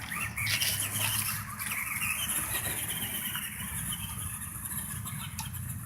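Battery-powered RC race car's electric motor whining, its pitch rising and falling as the car speeds up and slows.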